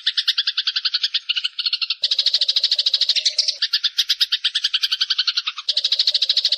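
Eurasian tree sparrow (burung gereja) giving a long, unbroken chattering rattle of rapid notes, about a dozen a second. The pattern changes abruptly twice, about two seconds in and near the end.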